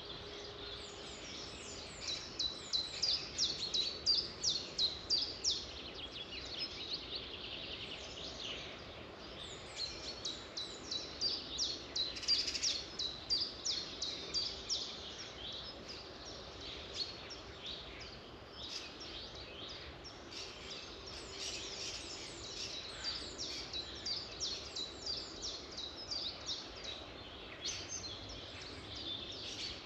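Songbirds singing: rapid runs of short, high, downward-sweeping chirps come in bouts every few seconds over a steady background hiss.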